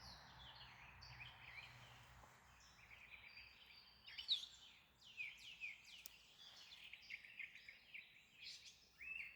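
Faint bird chirps and calls: many short, high notes and quick glides scattered throughout, the loudest about four seconds in.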